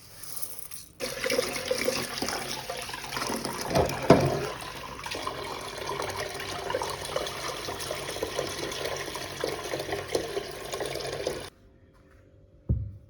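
Water running steadily, as from a tap or dispenser. It starts suddenly about a second in and stops suddenly near the end, with a louder thump about four seconds in.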